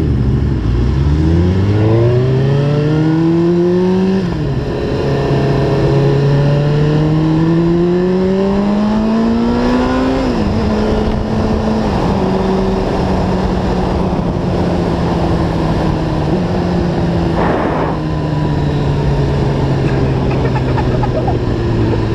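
Sport motorcycle engine accelerating away from a standstill through the gears: the revs climb, fall back at a gear change about four seconds in and again about ten seconds in, then hold steady at cruising speed.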